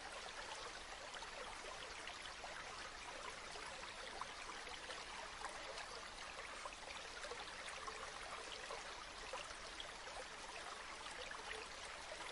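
River water flowing steadily, an even rush with many small splashes and trickles.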